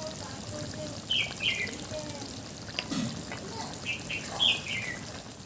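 A small bird chirping: short, high, falling chirps, singly and in quick pairs, repeated every second or so.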